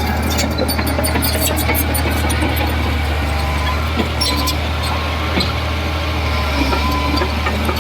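Heavy construction machine's diesel engine running steadily, a constant low hum, with scattered metallic clicks and rattles over it.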